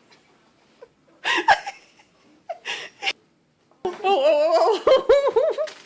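A person laughing: two short breathy bursts, then a long, high giggle that wavers up and down through the last two seconds.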